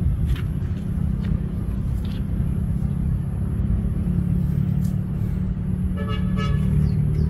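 A vehicle engine running with a steady low rumble. A short, broken horn toot sounds about six seconds in.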